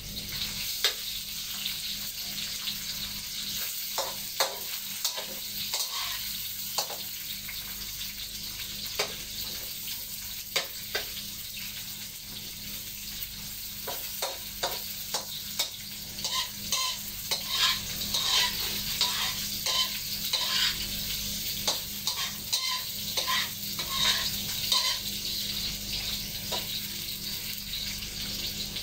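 Tofu and unpeeled garlic sizzling in hot oil in a wok while a metal spatula stirs them, with a steady frying hiss and scattered clicks and scrapes of the spatula on the pan. The clicks come more often past the middle.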